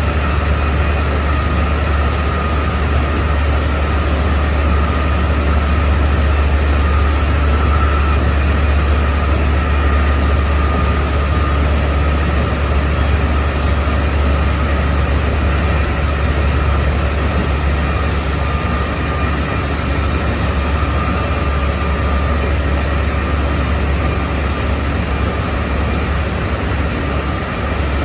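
Keikyu 600 series electric train running at speed, its Mitsubishi GTO-thyristor VVVF inverter and traction motors giving a steady whine over the low rumble of wheels on rail, heard from inside the passenger car.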